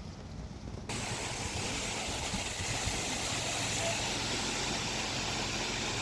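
Steady noise of a car on the move: a low engine and road rumble, then about a second in a sudden change to a louder, even hiss of road and wind noise.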